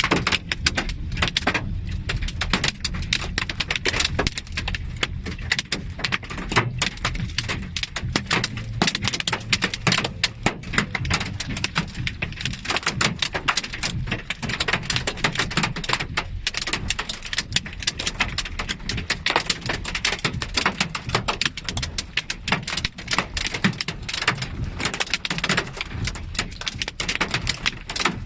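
Heavy rain pelting down: a dense, steady crackle of drops striking a hard surface close by, over a continuous low rumble.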